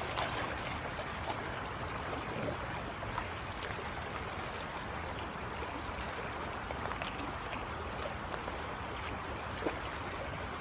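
Rushing creek water running over rocks, a steady rush with a few faint brief clicks.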